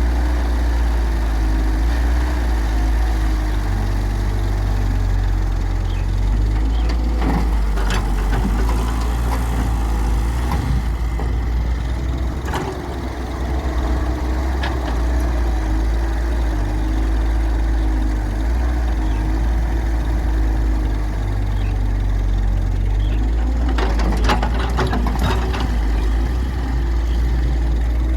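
Hyundai excavator's diesel engine running steadily under hydraulic load, its note rising and falling a little, with a few short clatters, most in a cluster near the end, as the bucket works the mud.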